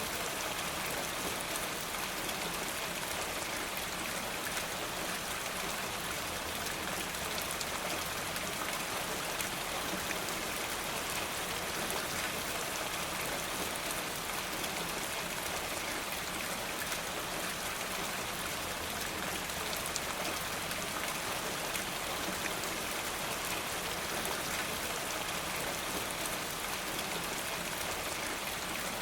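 Steady rain falling, an even hiss with a fine patter of drops that does not let up.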